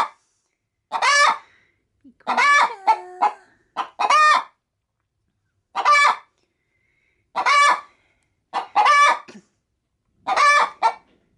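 Hen cackling: a string of loud, short squawking calls, one every second or two. She is getting ready to lay an egg.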